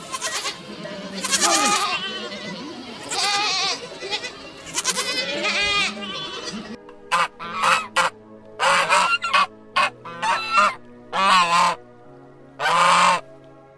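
Farm animals calling over soft background music: a dense run of overlapping calls, then about eight separate short calls in the second half.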